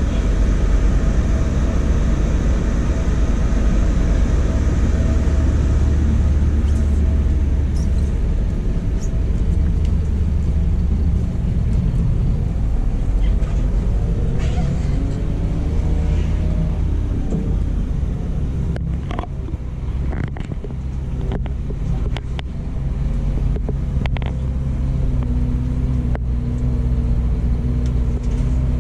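Scania coach's diesel engine running steadily at low revs, with a brief gliding squeal around the middle and a series of sharp clicks and knocks in the second half.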